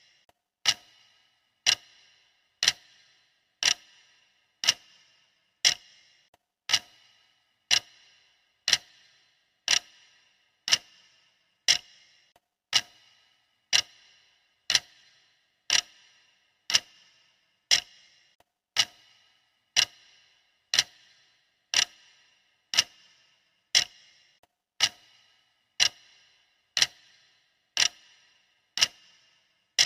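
Clock ticking steadily, one tick a second, each a sharp click with a short ring.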